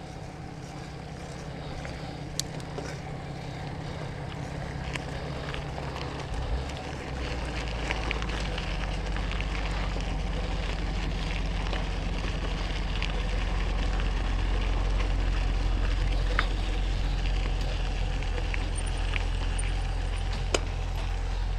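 Wind rumble on an action camera's microphone, with tyre and bike noise, as a mountain bike rides along a road. The rumble grows louder about a third of the way in, with a few light clicks from the bike.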